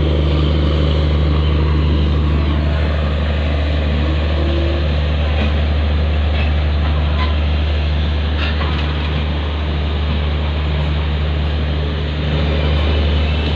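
Steady low rumble of a passenger train with a deep, even hum and a few faint clicks.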